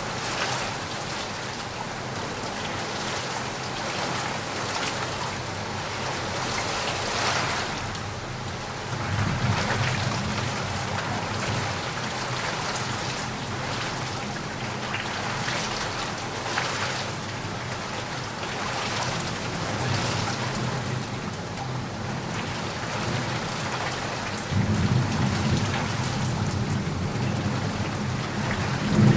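Steady rain hissing and pattering, with two low rolls of thunder, one about nine seconds in and a louder one from about 24 seconds in.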